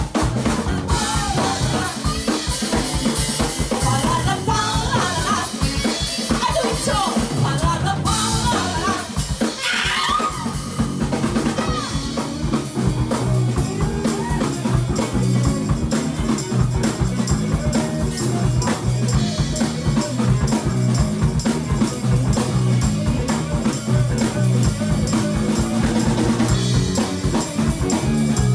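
Live band playing loudly: drum kit keeping a steady beat with a bass line underneath, and a melody line over it in the first part.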